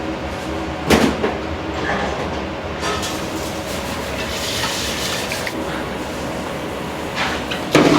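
Steady rumbling roar of a commercial kitchen's gas burners under large noodle-boiling pots, with a sharp clatter about a second in and another near the end.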